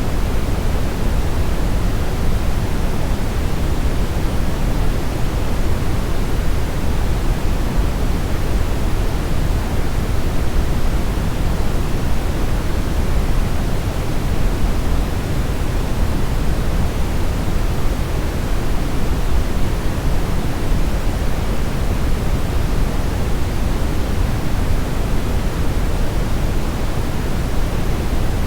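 Steady brown noise: an even, deep rushing hiss, strongest in the low end and fading toward the highs, unchanging throughout.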